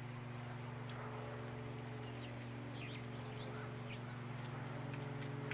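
Small birds giving short, high chirps every so often, over a steady low hum.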